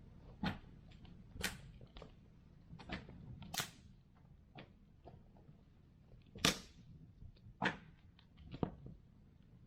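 Wood fire burning, with irregular sharp pops and crackles from the burning wood; the loudest pop comes about six and a half seconds in.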